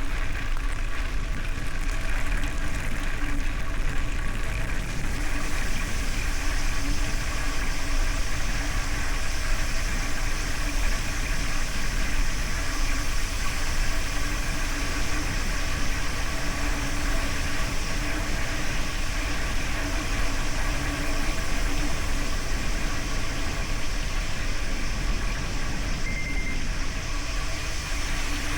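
Steady riding noise from a bicycle on the move: wind buffeting the microphone with a constant low rumble and rolling noise, under a faint steady hum.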